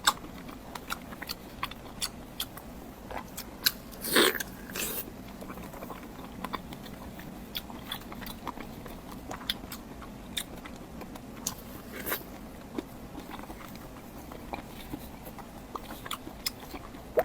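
Close-up mukbang eating sounds: a person biting and chewing a piece of crystal cured pork (shuijing larou), with many short wet mouth clicks and a louder bite about four seconds in.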